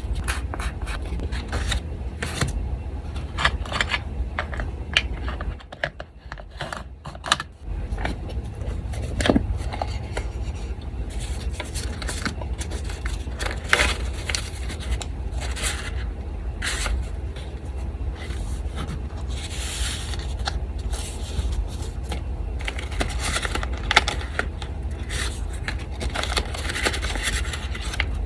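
Paper being handled, scraped and rustled on a desk in irregular short clicks and rasps. A steady low hum from an electric fan runs underneath and drops out briefly about six seconds in.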